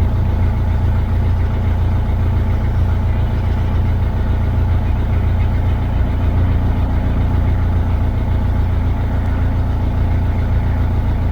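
Narrowboat diesel engine running steadily at low revs, a deep even drone with a constant pitch.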